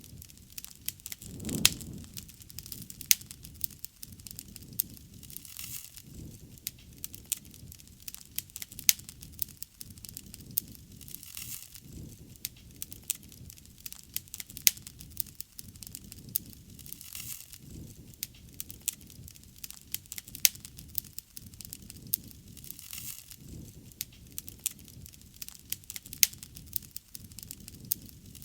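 Wood bonfire burning, crackling with frequent sharp pops over a low, soft rumble of the flames, one louder pop about a second and a half in.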